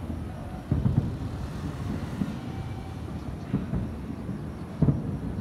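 Aerial fireworks shells bursting some distance away: several dull, low booms, a pair about a second in, more at three and a half and near five seconds, over a continuous low rumble.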